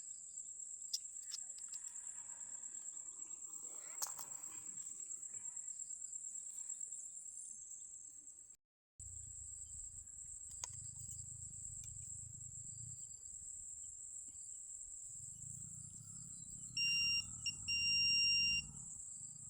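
Crickets or other night insects trilling steadily at a high pitch, cut off briefly just before halfway. Near the end a metal detector sounds two steady beeps, the second about a second long, signalling a metal target.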